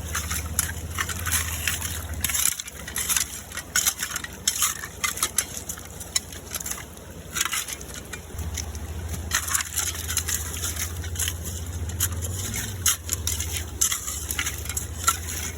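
Wet leaves and creek debris being scraped away, a run of irregular crunching and crackling, over a low steady rumble.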